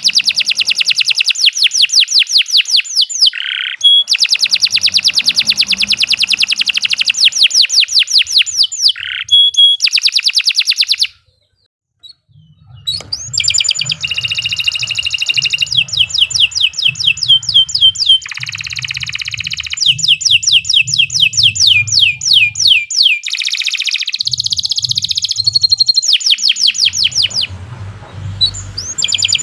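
Domestic canary singing a long song of fast trills, each made of rapid repeated sweeping notes, with short changes of phrase. The song stops for about a second near the middle, then resumes.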